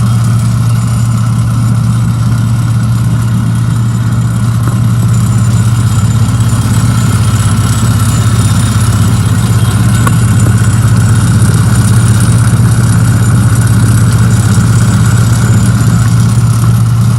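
Tymco 435 air sweeper's Kubota four-cylinder diesel kicker engine running at a steady speed with the vacuum on: a loud, steady deep drone with a steady higher whine above it.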